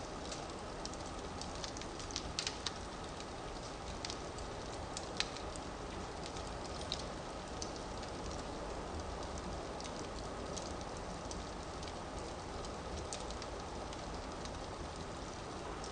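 Firewood burning in a fireplace: a steady hiss with scattered sharp crackles and pops, which come more often in the first half and thin out later.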